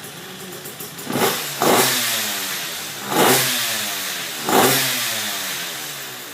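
Two-stroke KTM 85 single-cylinder engine in a Yamaha Blaster quad revved in four quick throttle blips, the first two close together, each dying away to a steady idle.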